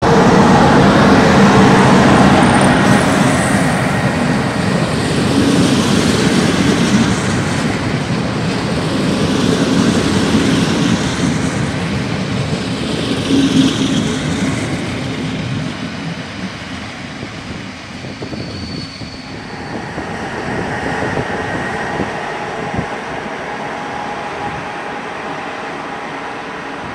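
A passenger train of double-deck coaches rolling along the platform tracks with loud wheel-on-rail rumble that fades off after about 16 s. In the second half an electric locomotive hauling coaches comes in, with a quieter rumble and a steady hum.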